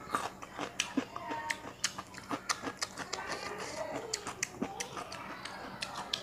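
Chewing a mouthful of raw cucumber close to a lapel microphone: many small irregular crunches and mouth clicks.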